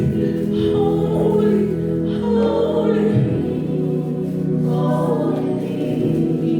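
Gospel worship choir singing with musical accompaniment, voices holding long sustained notes.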